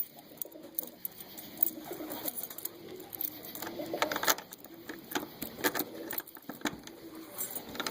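Pigeons cooing in a small enclosed space such as a loft, with a low wavering coo throughout. Scattered sharp clicks and knocks run alongside, the loudest cluster about four seconds in.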